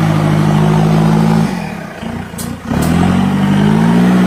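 Off-road 4x4's engine revving hard under load, then dropping off about a second and a half in. After a short lull with two sharp clicks, the revs climb again near the end.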